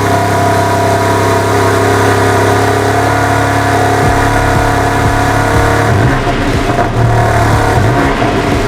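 BMW G82 M4's twin-turbo straight-six running through a Remus race exhaust: a steady note at first, turning rougher and more uneven about four seconds in, with short rises and falls in revs near the end.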